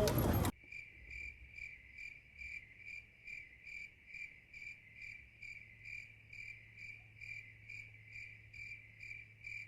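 Cricket chirping in a steady, even rhythm of about two to three high chirps a second, starting abruptly with almost no other background sound.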